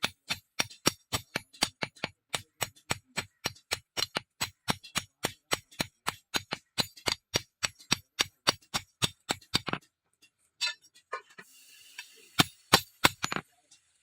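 Hammer beating steel on an anvil in a steady rhythm of about four blows a second, each blow ringing sharply. The blows stop about ten seconds in, and a few more come near the end.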